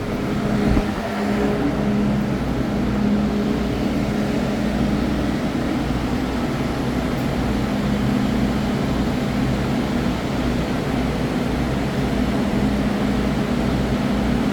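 Steady hum and rumble inside an MTR M-train car, with a constant low drone from the train's equipment. One dull thud comes about a second in, fitting the doors closing after the door chime.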